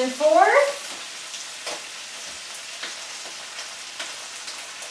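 Chickpeas with garlic and ginger frying in oil in a skillet, a steady sizzle with a few faint crackles.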